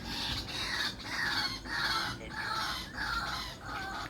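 Domestic fowl calling: a run of about seven short, repeated calls, a little under two a second.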